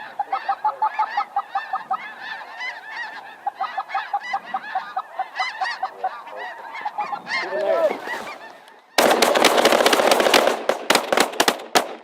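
Snow geese calling thickly, many honks overlapping, for about nine seconds. Then a volley of many shotguns fires in rapid, overlapping succession for about three seconds and stops abruptly.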